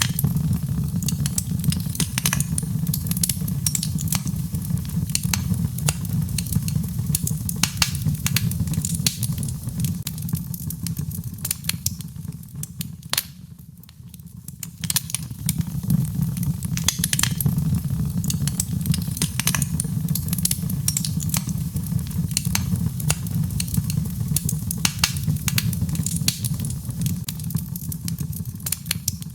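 Birchwood fire burning in a fireplace: frequent, irregular sharp crackles and pops over a steady low rumble, easing off briefly about halfway through before picking up again.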